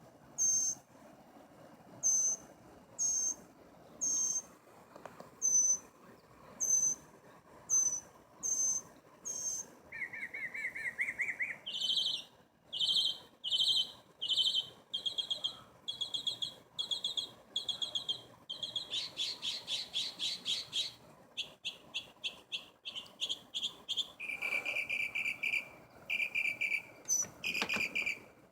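A songbird mimicking a multi-tone car alarm. It repeats a short, sharp, high chirp about once a second, breaks into a fast lower warble about ten seconds in, then moves through several other phrases, repeating each many times before switching, the way a car alarm cycles through its sounds.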